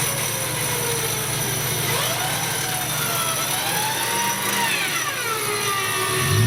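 Off-road vehicle engine running, its pitch rising and falling slowly as the revs change.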